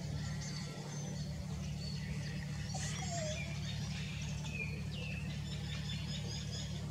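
Small birds chirping with short, scattered calls, some rising or falling in pitch, over a steady low hum.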